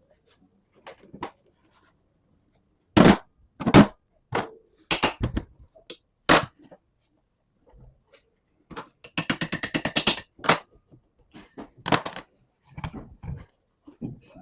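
Hand tools clinking and knocking on the metal parts of a Bendix AD-9 air dryer, a string of separate sharp knocks with a fast rattle of clicks about nine seconds in.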